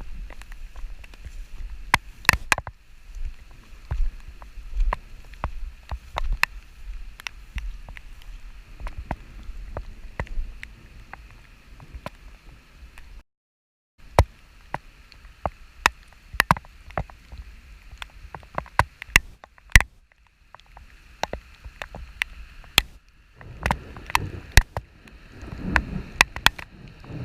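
Rain falling, with irregular sharp taps of drops striking close by over a steady hiss and a low wind rumble. The sound cuts out completely for a moment about halfway through.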